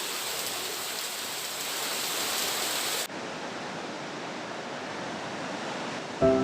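Steady rushing hiss of falling water. About three seconds in it cuts suddenly to a quieter, duller hiss, and music begins right at the end.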